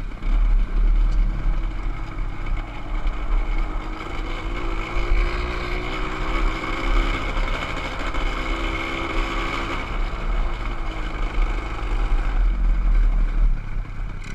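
Motorcycle engine running under way, its pitch climbing and easing off over the middle few seconds, over a heavy low rumble.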